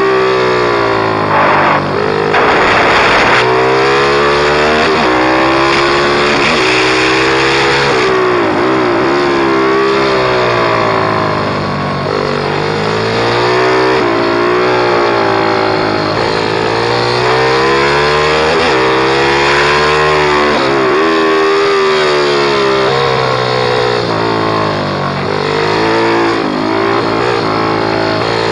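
Pit bike's small single-cylinder engine revving hard, its pitch climbing and dropping again and again as the rider works the throttle and gears. A short rush of noise sounds about two to three seconds in.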